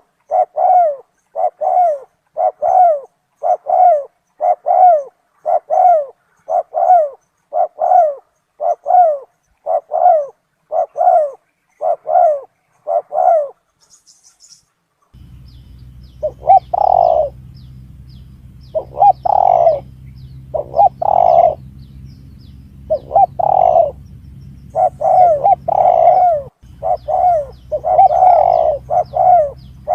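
Recorded spotted dove calls played as a hunting lure. First comes a fast, even run of identical coos, about three every two seconds. After a short break about halfway through, louder, more irregular cooing plays over a steady low hum.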